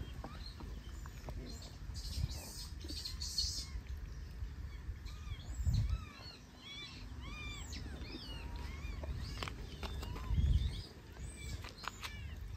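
Birds chirping: a run of short, quick chirps that grows busier about halfway through. Two brief low rumbles on the microphone, one around the middle and one near the end, are the loudest moments.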